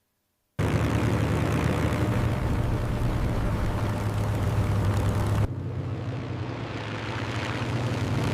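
Propeller-driven warplane engine running in flight. It starts abruptly after a moment of silence, cuts suddenly to a slightly quieter take about five seconds in, and then grows louder again.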